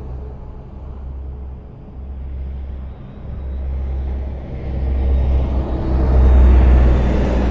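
Highway traffic: a steady low rumble of engines and tyres. It dips a little about two to three seconds in, then swells to its loudest about six seconds in as a vehicle comes close.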